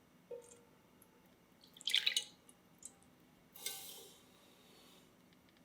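Small wet kitchen handling sounds: a light tap about a quarter second in, then two short bursts of dripping or splashing about two seconds apart.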